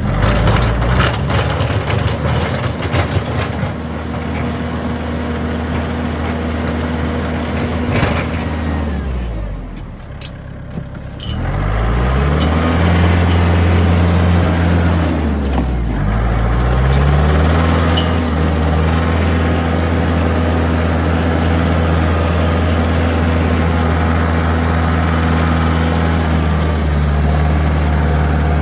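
Compact tractor engine running steadily, its pitch dropping and rising as it slows down and speeds up again, once about nine seconds in and briefly again around sixteen seconds.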